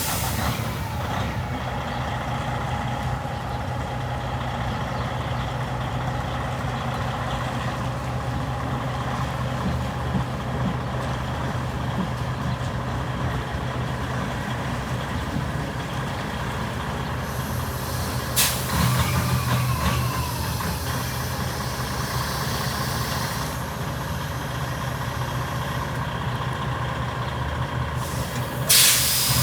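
Tractor-trailer's diesel engine running at low speed, with a sharp hiss of the air brakes about 18 seconds in and again near the end. The engine runs a little louder for a few seconds after the first hiss.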